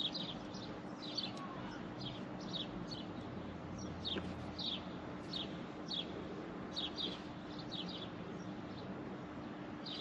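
Small bird chirping repeatedly: short, high, falling chirps in pairs and quick runs, with a faint steady low hum underneath.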